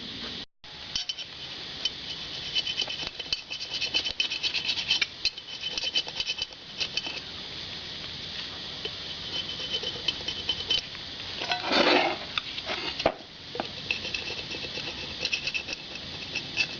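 A blunt hand scraper scratching and clicking over an old gasket on the engine part, loosened with paint stripper. Many small irregular ticks and scrapes, with one longer, louder scrape about twelve seconds in.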